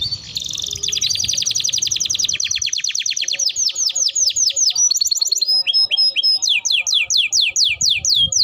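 Domestic canary singing a loud, continuous song of repeated-note trills, changing phrase every second or two: a fast trill at first, then slower falling notes at about four a second, a brief high steady whistle, and more falling notes.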